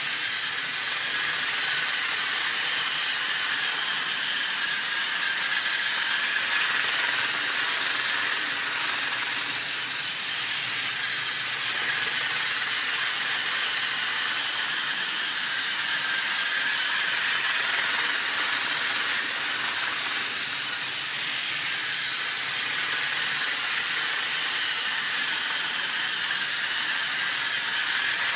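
Battery-powered toy train running steadily on plastic track: a continuous motor whir and wheel rattle with no change in pace.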